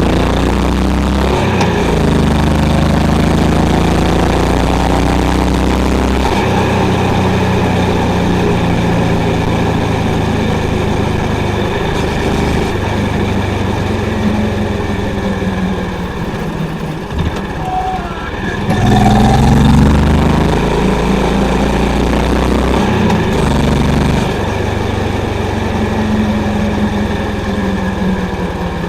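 Honda CB350's single-cylinder engine and exhaust under way, its pitch stepping and gliding up and down with throttle and gear changes. About two-thirds of the way through it eases off, then picks up louder again.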